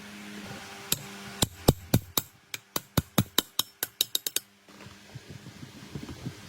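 A hammer striking a workpiece in a run of about fifteen sharp blows that come quicker toward the end and then stop.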